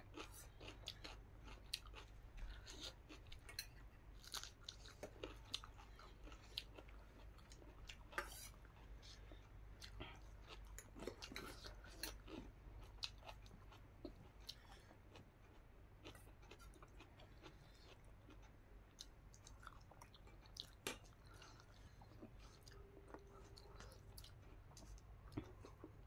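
Faint mouth sounds of chewing food eaten by hand, with irregular small clicks and smacks throughout.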